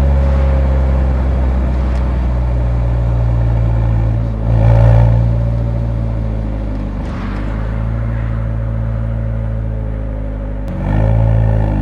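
Nissan 180SX's exhaust while driving, picked up close to the muffler: a steady engine note, swelling briefly about five seconds in, with the revs shifting near the end.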